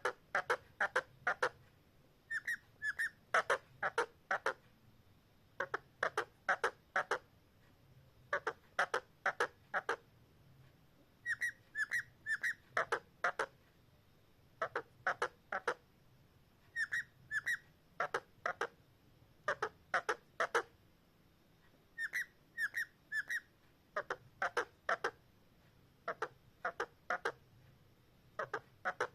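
Parrot whistling the same short phrase of quick, clear notes over and over, a burst every couple of seconds.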